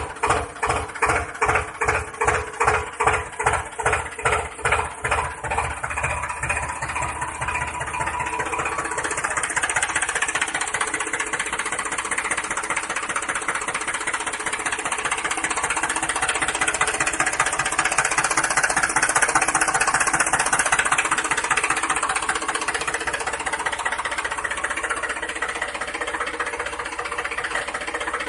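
Tractor engine chugging, its slow, even beats quickening over the first several seconds until it settles into a steady run.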